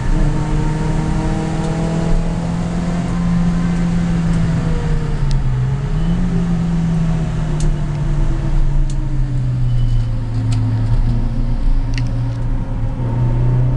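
Stage 2-tuned Suzuki Swift's engine heard from inside the cabin, pulling hard at high revs. Its note dips briefly about five seconds in and recovers, then sinks slowly over the last several seconds, with road and tyre noise underneath and a few light clicks.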